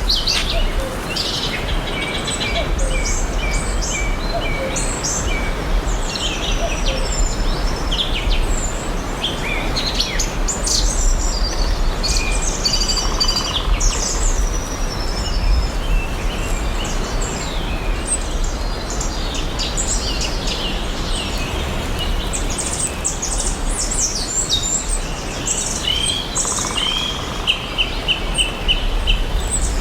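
Several forest birds chirping and singing at once, short overlapping calls and whistles throughout, over a steady low background rumble. Near the end one bird gives a fast run of repeated notes.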